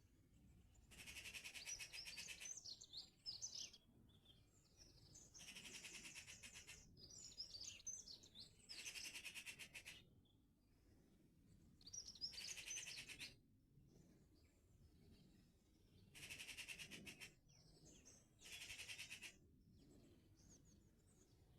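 A songbird singing faintly, in short, fast trilling phrases of one to two seconds with high twittering notes, repeated every three to four seconds.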